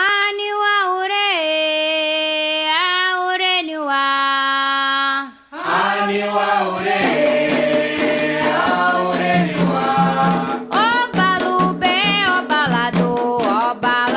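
Afro-Brazilian devotional song for Xangô: a single voice holds long sung notes unaccompanied, then about six seconds in drums and further voices come in together.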